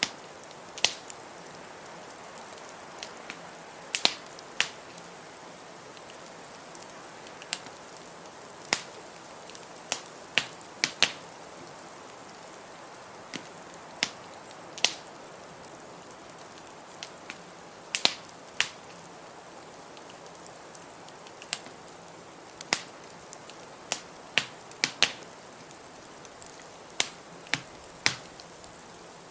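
Wood fire in a fireplace crackling: irregular sharp pops and snaps, one to a few seconds apart, over a steady soft hiss.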